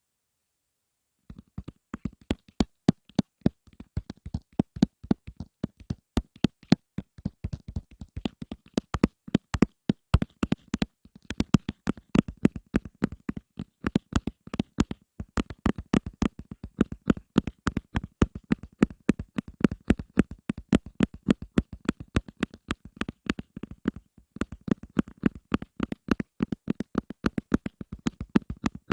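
Rapid, uneven fingertip tapping on objects held close to a microphone, starting about a second in after a brief silence.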